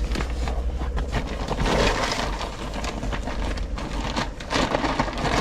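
Rustling and knocking of papers, envelopes and plastic binders being handled and moved, a dense run of small clicks and rustles.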